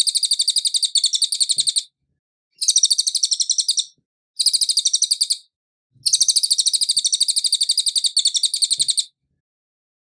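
A cililin songbird singing fast, high-pitched trills of rapidly repeated notes in four bursts with short pauses between them, stopping about nine seconds in.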